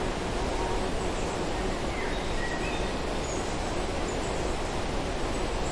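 Steady outdoor natural ambience, an even background hiss, with a few faint, brief bird chirps about two to three seconds in.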